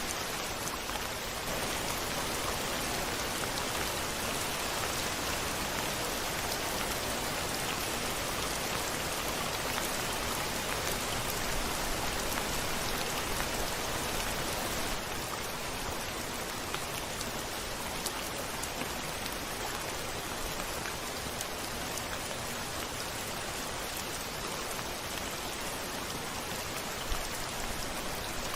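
Steady rain falling on a window pane, a dense even patter of drops with a few louder drop ticks near the end.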